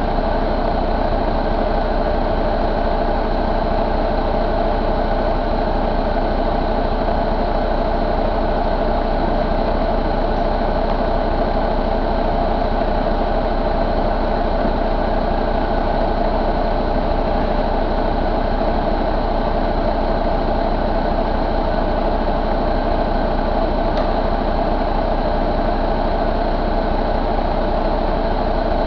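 2013 International MaxxForce 13 inline-six diesel engine running steadily at a constant speed, likely idling.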